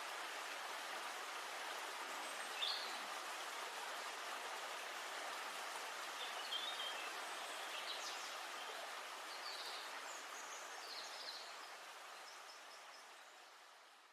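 Steady rush of running river water, with a few short bird chirps over it; the sound fades out near the end.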